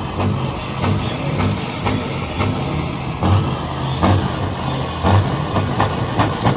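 Old Scania V8 diesel truck engine running with a low, uneven rumble.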